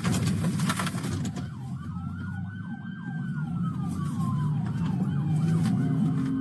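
Police sirens: one on a fast yelp, about four warbles a second, and another in a slow wail that rises and then falls over several seconds. Underneath is a steady vehicle engine and road rumble, with a quick run of sharp clicks or crackles in the first second.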